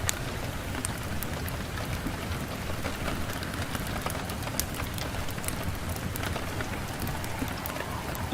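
Wood fire burning in a fireplace: a steady low rush of flames with frequent sharp crackles and pops at irregular times.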